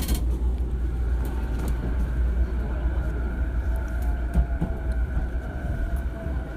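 Interior running sound of a JR East E233-0 series electric commuter train: a steady low rumble of wheels and bogies on the track, with a thin whine from the traction motors. The whine slides gently down in pitch as the train brakes for a station stop.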